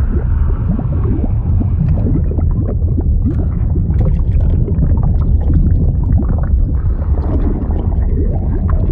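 Fluid sound effect: a steady deep rumble with continuous bubbling, gurgling liquid over it, many short blips packed together.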